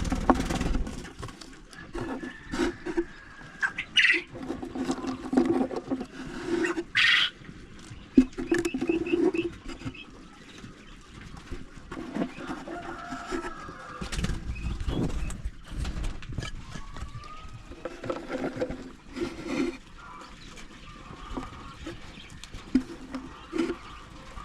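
Chickens clucking: short, low calls repeated throughout, with a few higher calls and occasional sharp knocks.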